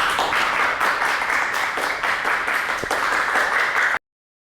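Audience applauding, a dense patter of many hands clapping that stops suddenly near the end.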